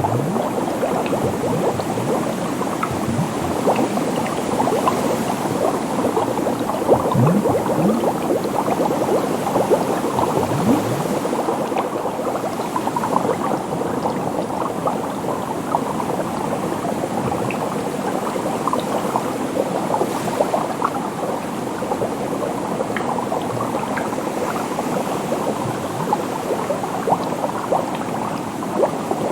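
Water bubbling steadily: a dense stream of small bubbles, many short rising blips overlapping without a break.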